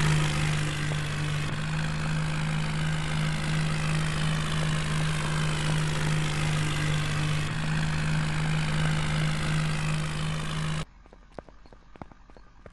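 Tractor engine running steadily with a strong even hum, cut off abruptly near the end, after which only faint scattered clicks remain.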